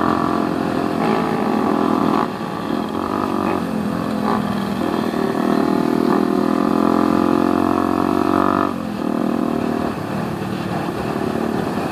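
Yamaha Vixion's single-cylinder engine running under way on the road, its pitch and level falling as the throttle is eased about two seconds in, briefly around four to five seconds, and again near nine seconds.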